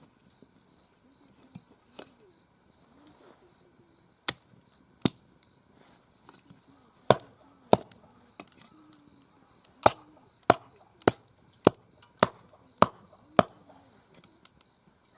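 Firewood being chopped: a few scattered sharp chops, then a steady run of about seven strikes a little over half a second apart in the second half.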